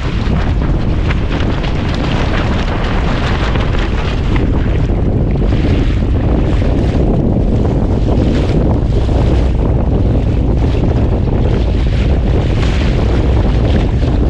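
Wind buffeting the microphone, over water washing along a small sailboat's hull as it sails.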